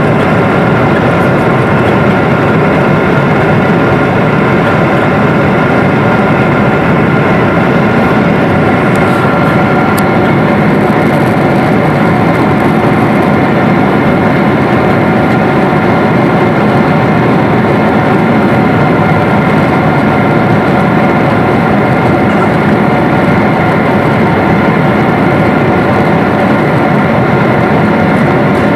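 Jet airliner engines and airflow heard from inside the passenger cabin: a steady loud rush with a constant high whine.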